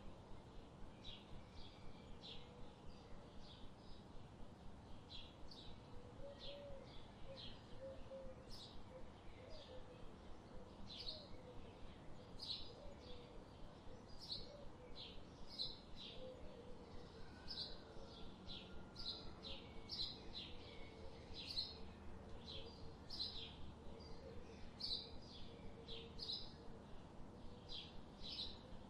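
Forest birds chirping: a steady run of short, high chirps about twice a second, with a faint lower warbling joining about six seconds in.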